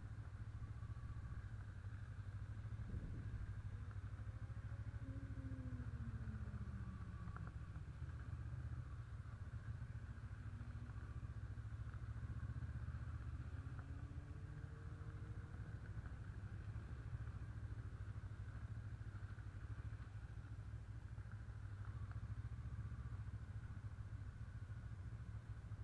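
Honda CB 500 motorcycle engine running at low riding speed as a steady low drone. Its pitch falls about five seconds in and rises again a few seconds later as the throttle changes.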